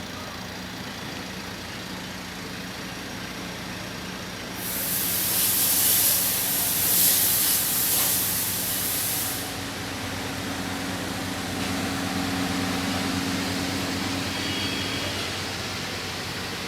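Evaporative cooler running with a steady low motor hum. A loud hiss comes in about five seconds in and lasts about five seconds, and a second low hum joins soon after it stops.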